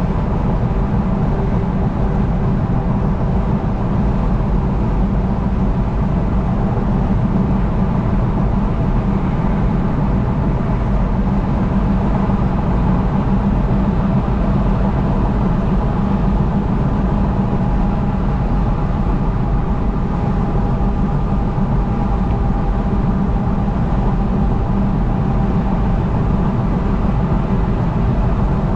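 Steady road and engine noise of a vehicle driving at highway speed, heaviest in the low range and even throughout, with faint steady tones above it.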